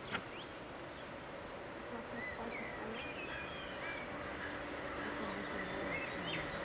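Small birds chirping over outdoor background noise, with a low steady hum building from about three seconds in, as of a train approaching.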